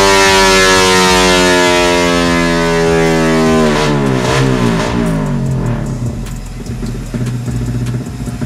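Yamaha MX King pro-street 180cc four-stroke single-cylinder engine on a chassis dyno, its revs falling steadily as it winds down from high rpm at the end of a full-throttle pull. About four seconds in the pitch wavers and drops to idle, and it then idles steadily.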